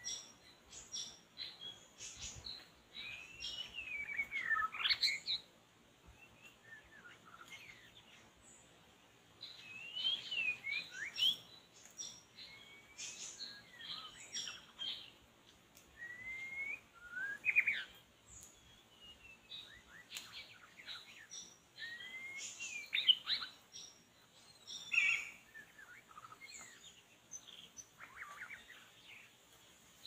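Songbird singing bursts of varied whistled phrases with quick rising and falling glides and sharp short notes, every few seconds, over a faint steady high hiss.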